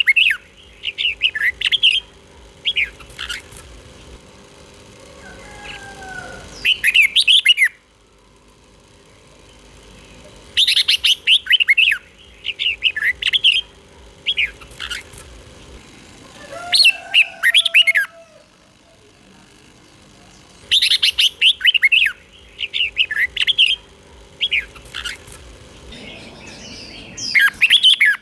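Red-whiskered bulbul singing loud bursts of short, quick warbled notes, the same sequence of phrases repeating about every ten seconds, with brief quiet gaps and a faint steady hum between phrases.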